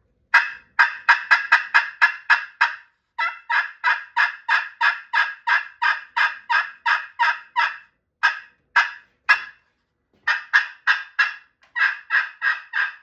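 Gray-slate-over-glass turkey pot call in a butternut pot, worked with a striker to imitate a hen turkey: runs of short yelps at about four a second. There are several series with brief pauses between them, and a few single spaced notes in the middle.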